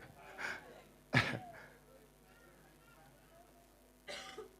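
A single sharp cough or throat-clear into a microphone about a second in, with short breathy exhales before it and near the end.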